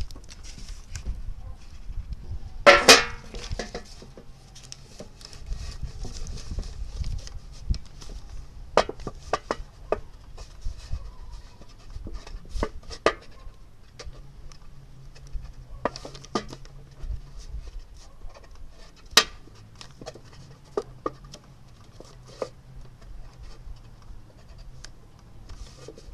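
Empty metal cookie tin being handled and worked with hand tools: scattered clicks and knocks of metal, with one loud, brief squeal of metal about three seconds in.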